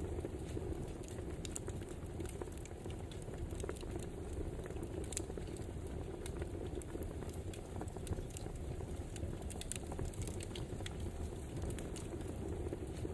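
Wood fire burning: a steady low rush of flames with frequent, irregular sharp crackles and pops from the burning logs.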